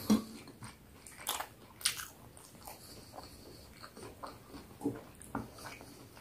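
Close-up chewing of a mouthful of chicken burger with a crispy fried chicken fillet: scattered short crunches and wet mouth clicks, the crispest about a second and two seconds in.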